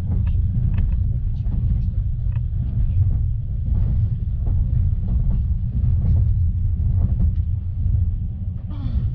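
Steady low rumble of a moving passenger train, heard from on board, with faint scattered ticks over it.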